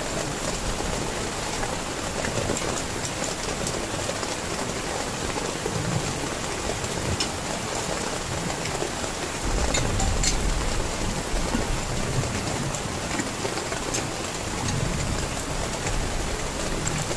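Heavy rain falling steadily, a dense even hiss with scattered sharper drop hits, and a low rumble swelling about ten seconds in.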